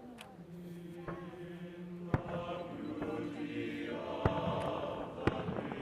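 Fireworks display: three sharp firework bangs about two, four and five seconds in, over music with long held, chant-like notes.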